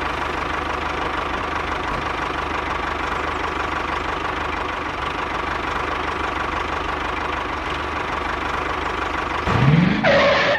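Small engine of a miniature DIY machine running steadily with a fast, even knocking rhythm. Near the end comes a brief, louder sweep that rises and falls.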